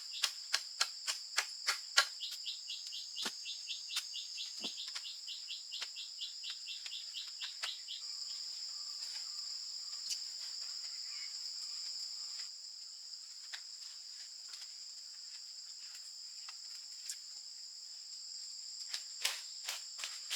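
Insects trilling steadily at a high pitch, with a quick pulsed chirping over the first several seconds. Sharp taps or knocks come at a steady pace for about eight seconds, then only now and then.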